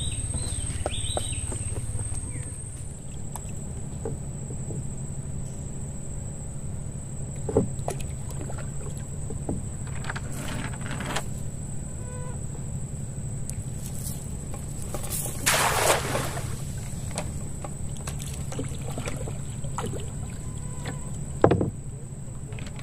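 A small boat's motor running steadily with a low drone, with a few sharp knocks and a brief rush of water about halfway through.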